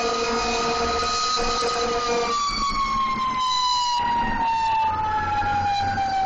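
Fire truck siren sounding, its main tone falling slowly and steadily in pitch from about two seconds in. A steadier lower tone sounds alongside it and stops about two seconds in.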